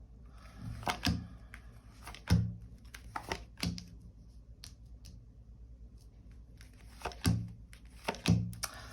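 Tarot cards being handled and laid down on a table: several sharp taps and soft thuds in the first few seconds, then two more near the end.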